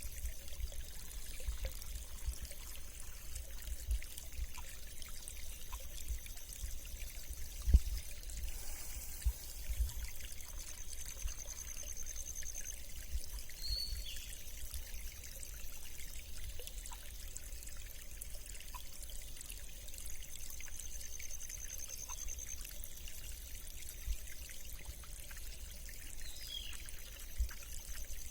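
Small rain-fed stream flowing and bubbling steadily, with low rumbles and one sharp knock about eight seconds in. A faint steady high tone runs behind it, pulsing in places.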